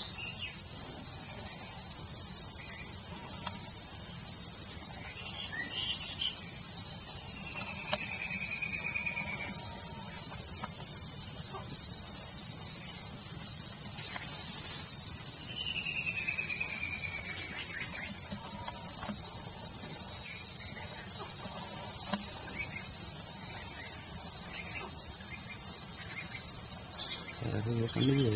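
Loud, steady chorus of insects shrilling without a break. Twice, about a third and halfway through, a bird gives a long whistled call that falls in pitch.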